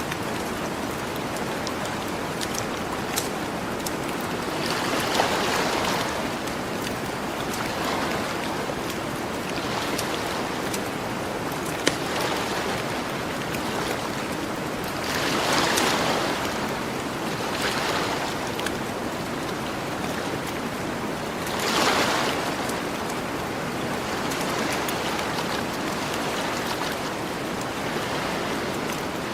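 Gentle ocean waves washing onto a beach, a steady hiss that swells with each breaking wave every few seconds, loudest twice in the second half. A campfire crackles alongside, with a few sharp pops.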